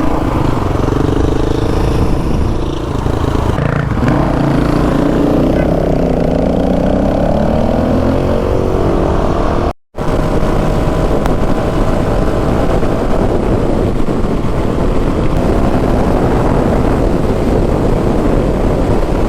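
Honda CRF450RL's single-cylinder four-stroke engine under way on the road, pulling up in pitch as the bike accelerates for a few seconds. There is a brief silent cut about halfway through, then steady cruising with the engine and road noise blended together.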